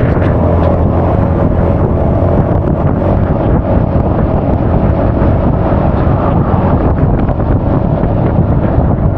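Wind buffeting the action camera's microphone while riding a Honda Forza 350 scooter, a steady loud rumble with the scooter's single-cylinder engine drone faintly underneath.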